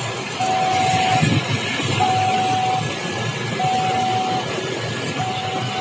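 Railway level-crossing warning alarm sounding long, even beeps of one steady tone, about one every one and a half seconds, the signal that a train is approaching. Road traffic noise runs underneath.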